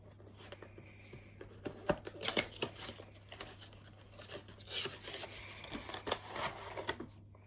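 Cardboard box and packaging of a diecast model airplane being handled as the model is slid out: irregular scraping, rubbing and rustling with scattered light knocks.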